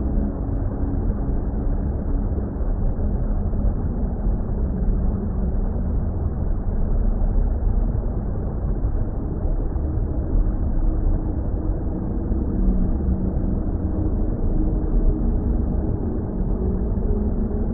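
Deep, steady water rumble, heaviest in the bass, with faint held droning tones above it: a relaxation ambience soundtrack.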